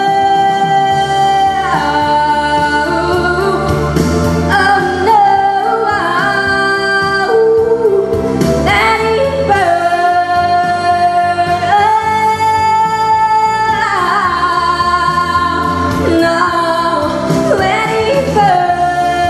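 Teenage girl's solo voice singing long held notes, several seconds each with short slides between them, over a pop-ballad backing track.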